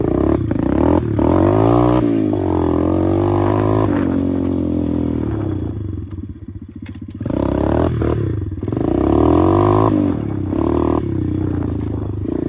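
125cc pit bike engine revving up and down as it is ridden, with the throttle eased off about six seconds in and opened again about a second later. Knocks and rattles from the bike going over bumps.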